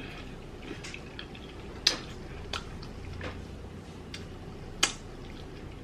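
Close-miked eating sounds while chewing chicken wings: a few sharp, wet mouth clicks and smacks, the loudest about two seconds in and again near the five-second mark.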